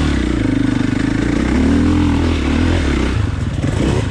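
Dirt bike engine revving hard under load on a steep hill climb, its pitch rising around the middle and dropping back a little before the end as the throttle is worked.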